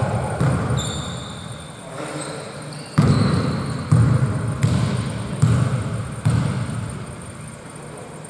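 A basketball being dribbled on the court: five bounces a little under a second apart, starting about three seconds in. A short high squeak sounds near the start.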